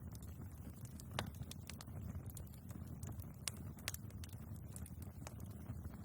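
Wood fire burning in a fireplace: a steady low rumble of flames under frequent sharp crackles and pops from the logs. The loudest pop comes about a second in.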